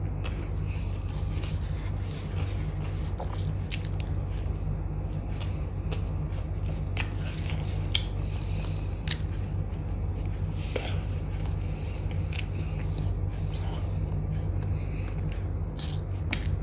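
Close-miked eating sounds of a person chewing veg pizza, with a handful of short, sharp wet mouth clicks and smacks spread through, over a steady low hum.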